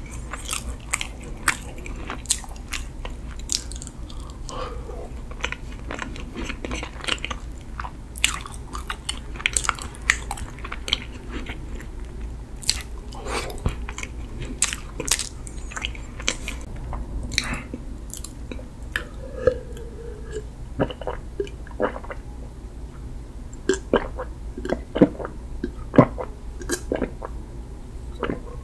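Close-miked eating of a Freddi Dark Dolcetto mini cake, a dark-chocolate-coated sponge cake with a soft filling: bites and moist chewing with many short, sharp mouth clicks.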